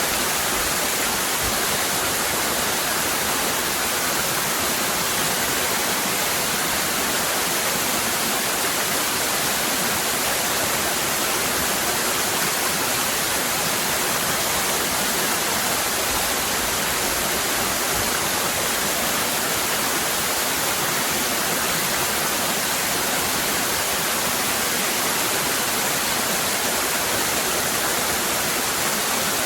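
Waterfall cascading, a steady, unbroken rush of falling water.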